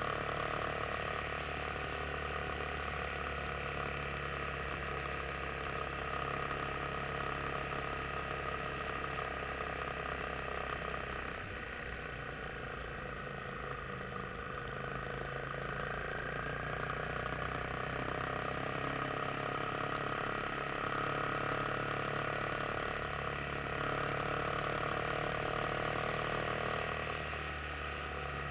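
Yamaha XT250 single-cylinder four-stroke motorcycle engine running steadily while riding along a winding road. It eases slightly for a few seconds about halfway through.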